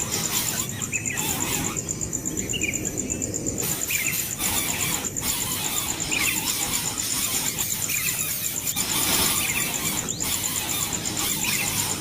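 Bird chicks calling with short, high squeaky chirps every second or so, over a steady high pulsing buzz.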